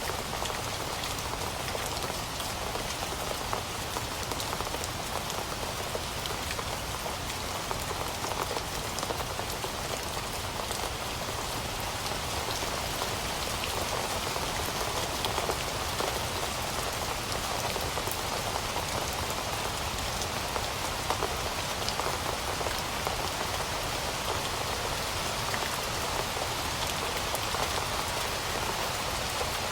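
Steady rainfall pattering on surfaces, a dense even hiss of drops with many small individual drop hits.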